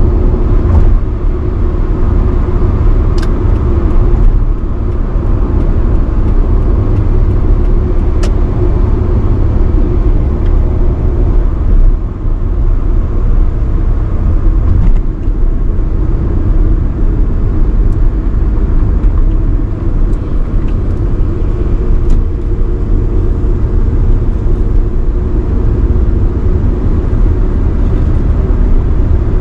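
1985 Nissan Sunny B12 driving at speed on the expressway: a steady, loud rumble of engine and road noise that holds even throughout.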